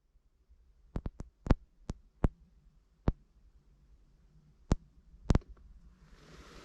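A series of irregular sharp knocks and clicks, about ten of them, over a faint low hum, with a hiss rising near the end.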